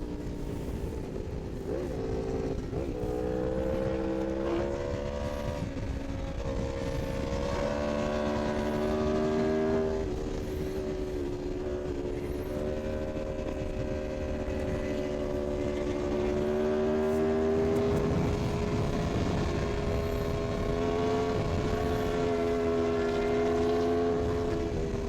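Superbike engine at high revs at highway speed, its note climbing and dropping back with several upshifts in the first ten seconds, then holding a steady high-speed note, over wind rush.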